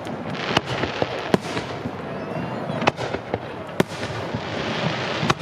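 Aerial fireworks display: a string of sharp bangs from bursting shells, roughly one a second, over a steady crackle, with a faint whistle around three seconds in.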